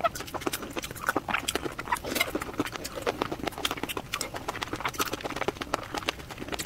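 Wet chewing and lip-smacking of raw shrimp in chili sauce, a quick irregular run of small clicks and squelches.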